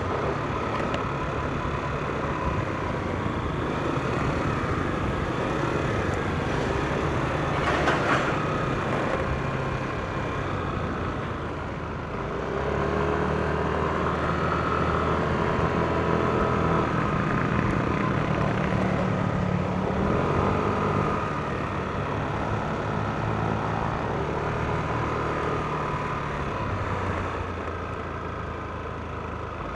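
Yamaha NMAX scooter's single-cylinder engine running on the move, with steady wind and road noise. It picks up about twelve seconds in and eases back again after about twenty seconds.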